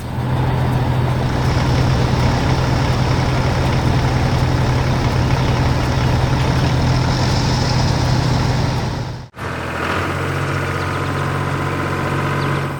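Heavy vehicle engine sound effect running steadily with a strong low hum, cutting out for a split second about nine seconds in and then resuming.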